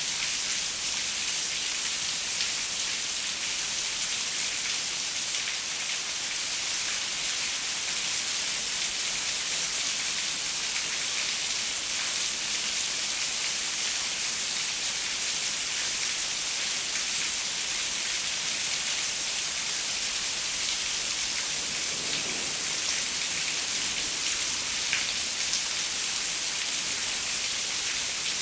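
Steady rain falling on a window pane: an even hiss with scattered sharper drop ticks.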